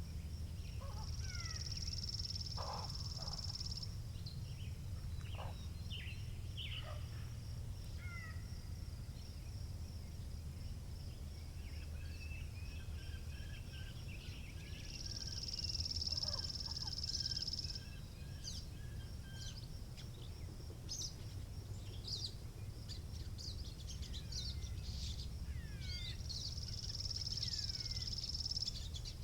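Several birds singing and calling, with many short chirps and falling whistles. A high buzzing trill about three seconds long comes three times, at the start, in the middle and near the end. Under it runs a steady low rumble of wind.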